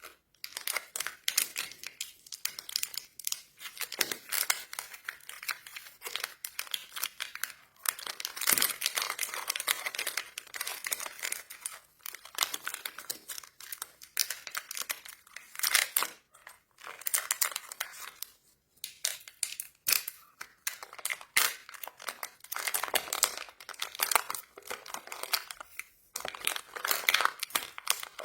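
Crinkly plastic candy wrappers being crumpled and torn open by hand, a dense crackling with sharp snaps that comes in spurts with short pauses.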